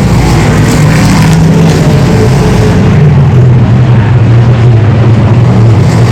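Race car engines running loud and steady on the track.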